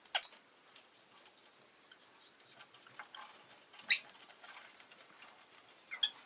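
Rosy-faced lovebird giving three short, sharp, high-pitched calls a couple of seconds apart, with faint clicking between them.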